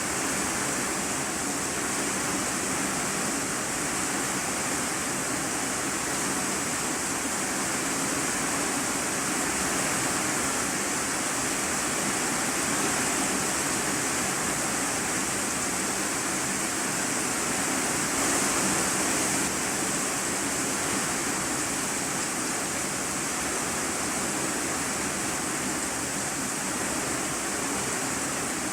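Rain drumming steadily on an iron-sheet roof, heard from inside the room beneath it, a dense even hiss of countless drops with no breaks.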